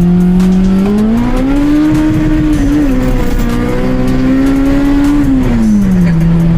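Honda K24 four-cylinder engine accelerating: its note climbs over about a second, holds high for a few seconds, then drops back as the throttle comes off near the end.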